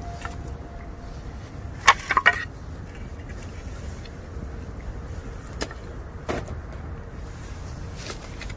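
Bamboo burning in a campfire, the fire crackling with sharp pops as the hollow stalks burst: a quick cluster of three loud pops about two seconds in, then single pops later on. A faint thin whistle near the start is typical of steam escaping from the moisture inside the bamboo.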